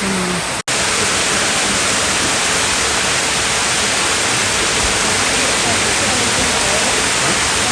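Steady rushing water of a waterfall close by, with faint voices under it. The sound cuts out abruptly for an instant just under a second in, then resumes as before.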